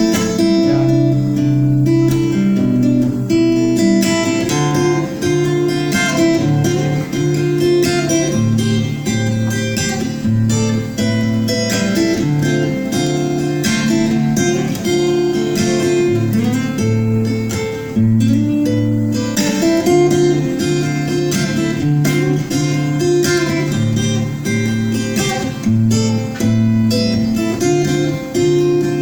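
Instrumental introduction of a song: acoustic guitar strumming chords over a steady bass line, with no singing.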